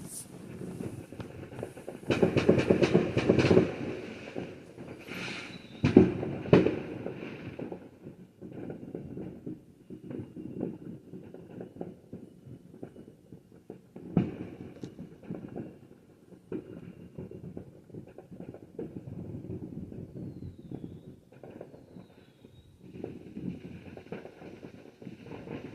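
Fireworks going off: a dense stretch of crackling about two seconds in, sharp loud bangs around six seconds in, then scattered pops and cracks over a low rumble.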